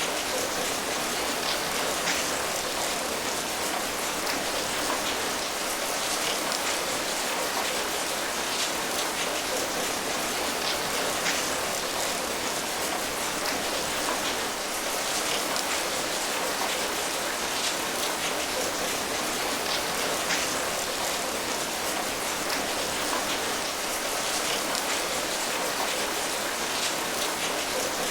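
Steady rain falling, an even patter of many drops landing on a surface, with no let-up.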